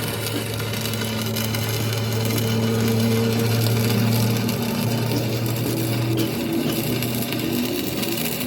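A steady mechanical hum with a rough, scraping noise over it, as from a machine working metal.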